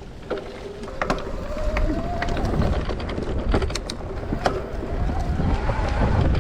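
Shimano EP8 e-bike drive unit whining under pedal assist, its pitch rising twice as the bike picks up speed. Under it run tyre and wind rumble and sharp knocks and rattles from the bike on rough trail.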